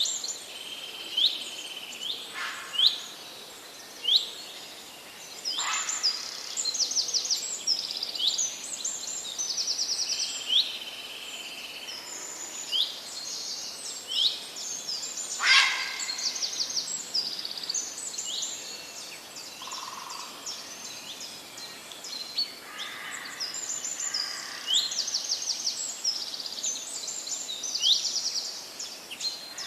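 Several wild songbirds singing and calling over one another: repeated short rising whistled notes and quick high trills, over a steady background hiss.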